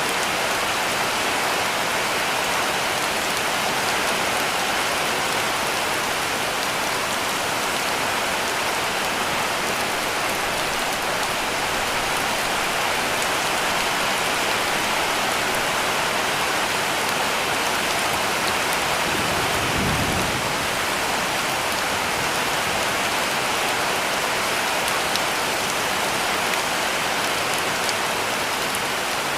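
Heavy rain falling steadily on a cabin roof, a dense, even hiss. About two-thirds of the way through, a brief low rumble rises under it.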